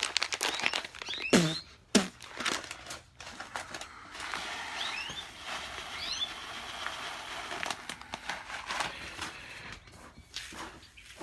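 Dry seeds being handled and poured for a sprouting mix. There is a quick run of clicks and rustles, then a steady pouring hiss for several seconds, with a few short, faint bird chirps over it.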